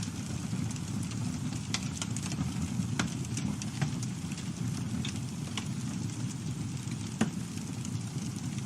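Campfire burning with a steady low rumble of flames and scattered sharp crackles and pops from the burning wood, one louder pop about seven seconds in.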